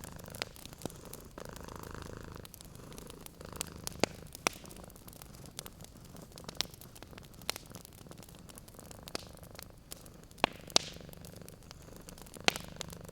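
Domestic cat purring steadily, a low continuous rumble, over a wood fire crackling with scattered sharp pops, several louder ones about four seconds in and near the end.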